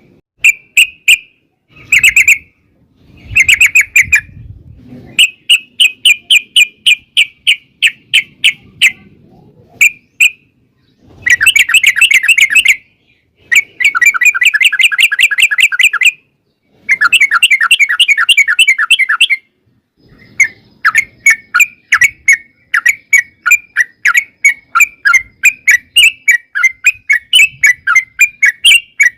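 Yellow-vented bulbul (trucukan) singing loud, chattering phrases of quick repeated notes. It rattles off three long fast runs midway and gives more spaced chirps before and after them.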